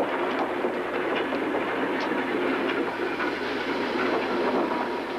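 Railway train moving on the rails, a steady clatter of wheels on the track.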